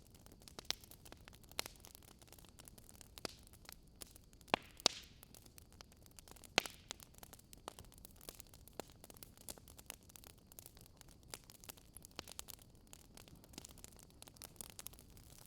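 Burning firewood crackling: irregular sharp pops and snaps, a few a second, over a faint steady hiss.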